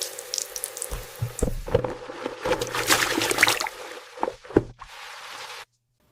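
Water running in a miniature toy kitchen set, a steady splashing stream over a faint motor hum, with small plastic knocks and clatters; the flow cuts off suddenly near the end.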